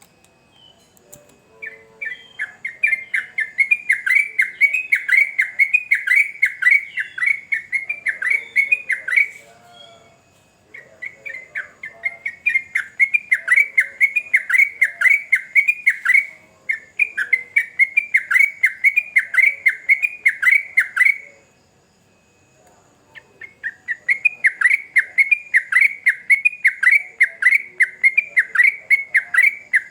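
Trucukan (yellow-vented bulbul) singing: long phrases of rapid, evenly repeated chattering notes, broken by a few short pauses, the longest about a second and a half.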